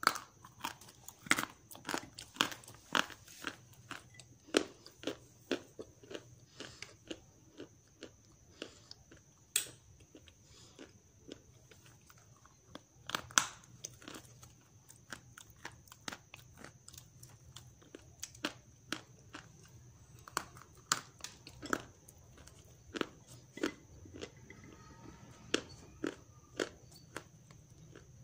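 Grey clay being bitten and chewed close to the microphone: a run of irregular, sharp crunches and crackles, some loud and some faint, with a faint steady high whine underneath.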